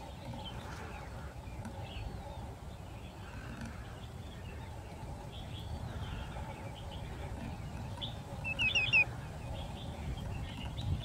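Wild bird calls: faint short calls scattered throughout, and about eight and a half seconds in a quick run of four short falling whistled notes, the loudest sound. A steady low rumble lies underneath.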